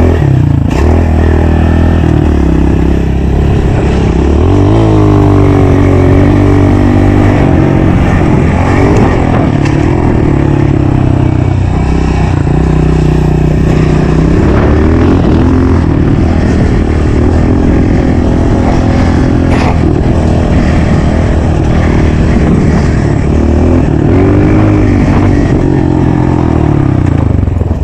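Honda CRF125 pit bike's single-cylinder four-stroke engine revving up and down repeatedly as the throttle is opened and closed while riding.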